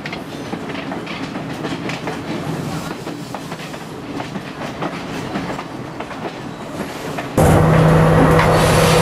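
Passenger train running along the track with scattered wheel clicks over the rails. About seven seconds in, the sound cuts abruptly to a louder, steady engine drone with a low hum.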